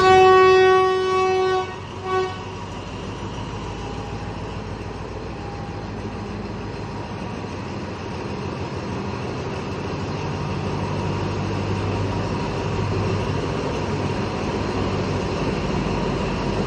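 Train horn sounding one long blast and a short toot, then the diesel locomotive's engine running steadily as the train pulls out of the station, its sound slowly building.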